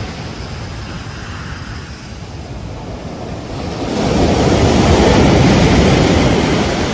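Ocean surf washing on a beach: a quieter lull, then a wave breaks and its rush of water swells from about four seconds in, easing off near the end.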